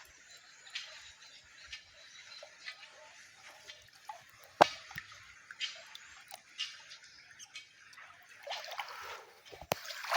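Water dripping and splashing lightly in short irregular spurts, with one sharp click about four and a half seconds in and busier splashing near the end.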